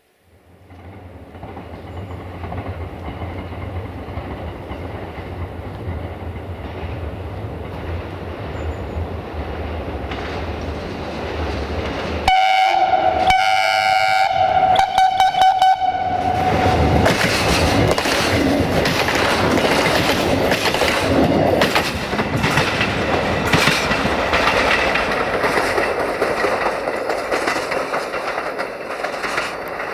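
Diesel train approaching with a low engine rumble that grows louder, sounding its multi-tone horn about twelve seconds in for several seconds with a couple of short breaks, then passing close by with its wheels clicking over the rail joints.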